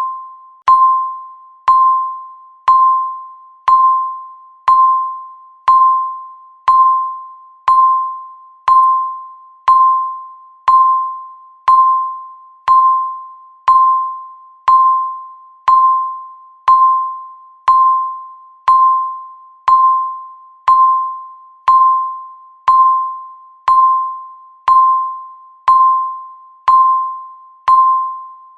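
Countdown timer beep sounding once every second: each a short tone of one pitch that starts sharply and fades away before the next.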